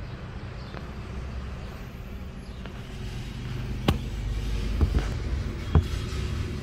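Car engine running with a steady low hum. A few sharp clicks or knocks come in the second half, two of them close together about five seconds in.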